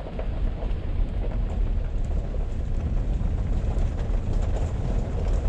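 Low, uneven rumbling noise that rises and falls throughout, with no pitched tone in it.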